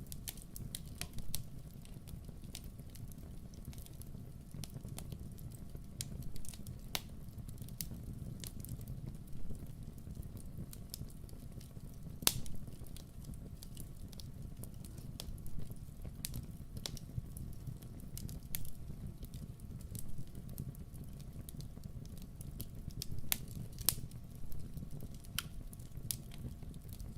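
Campfire burning: a steady low rumble of flames with irregular sharp crackles and pops throughout, the strongest pop about 12 seconds in.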